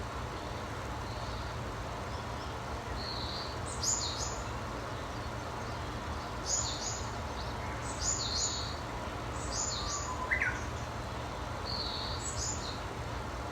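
A songbird repeating a short, high-pitched phrase of quick descending notes five times, with softer single calls between, over a steady low background rumble.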